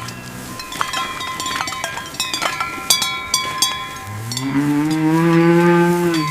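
A bovine mooing: one long low call that begins about four seconds in, rises a little and then holds steady. Before it come a scatter of short, high ringing notes.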